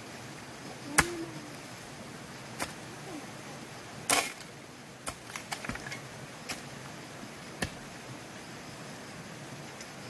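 Bamboo being worked with hand tools: irregular sharp knocks and taps over a steady hiss, the loudest about a second in and a quick cluster around four to six seconds in.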